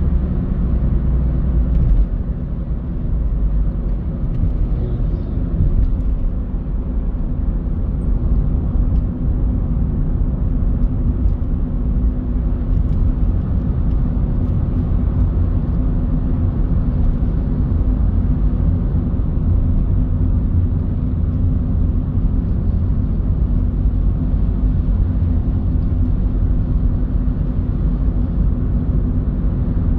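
Car driving on town roads: a steady low rumble of engine and road noise.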